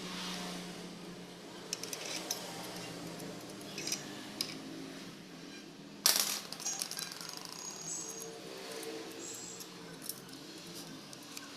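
Metal engine parts and hand tools clinking and knocking during teardown of a TVS Jupiter 110cc engine, in scattered light clicks, with a sharp metallic clank about six seconds in and a few brief high ringing tones soon after.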